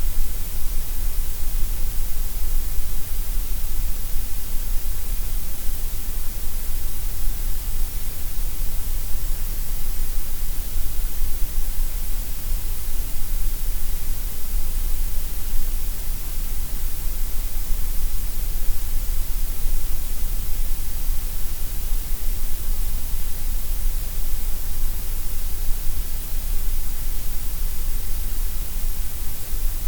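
Steady synthetic gray noise: a constant, unchanging hiss over a deep rumble.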